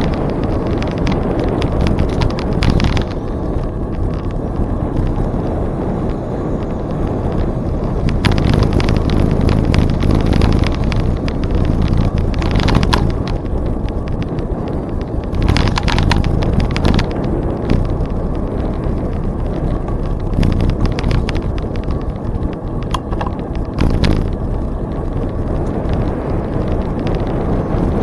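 Wind rumbling over the microphone of a camera on a moving bicycle, with clusters of clicking and rattling from the bike every few seconds.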